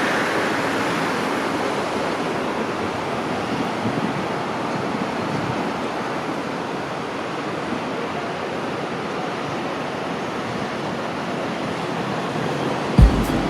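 Steady wash of city road traffic noise, easing off slowly.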